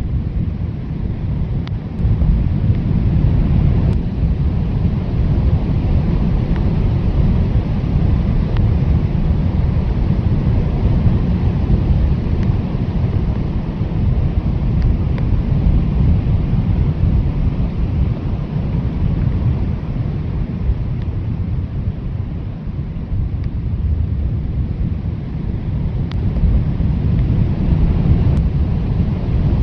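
Blizzard wind blowing hard. It is a steady, deep rush of noise that swells and eases slightly without letting up.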